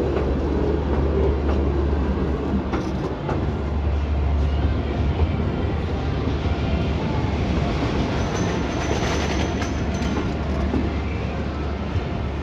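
Miniature railway train running along its track: a steady low rumble of wheels on rails, with a few clicks about three seconds in and a faint high squeal for a second or two past the middle.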